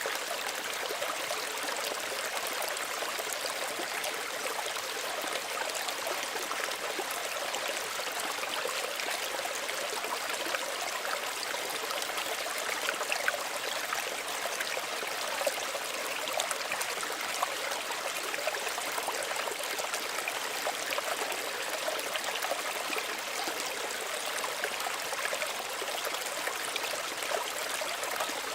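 Small stream running steadily over stones, a continuous gentle trickling and babbling of water with small splashes.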